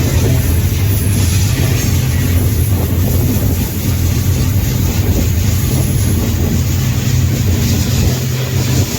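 Freight train rolling along, heard from aboard one of its cars: a loud, steady low rumble of wheels on rail with a constant rushing noise over it.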